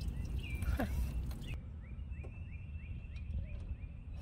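A bird singing a run of short, quickly repeated high chirps, over a low steady outdoor rumble.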